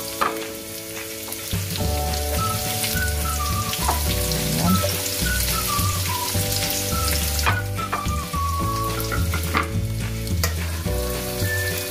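Chopped onion and garlic sizzling in hot oil in a wok, a steady frying hiss. Background music with a steady bass line plays underneath.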